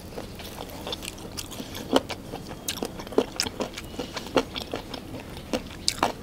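A person chewing a bite of sauce-coated fried chicken lollipop close to the microphone: irregular wet mouth clicks and smacks, several a second.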